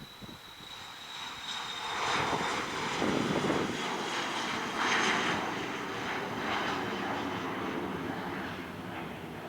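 Dassault Falcon 7X trijet's three Pratt & Whitney PW307 turbofans at take-off power. A high thin whine comes first, then the jet noise swells about two seconds in and holds steady.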